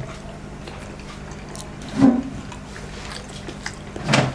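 Close-miked wet chewing and mouth sounds of a man eating spicy noodles, with a louder wet smack about two seconds in and another near the end, over a steady low hum.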